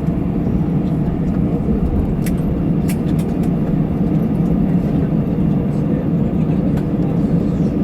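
Steady low cabin rumble of an Airbus A320 taxiing after landing, with a few faint clicks.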